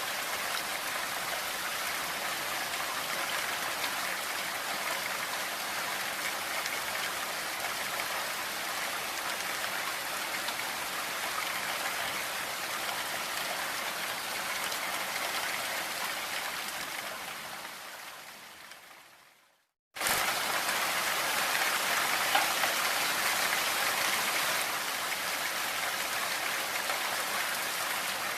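Steady rain mixed with pink noise, an even hiss of drops. About two-thirds of the way through it fades away to a brief silence, then cuts straight back in at full level, as where a recording loops.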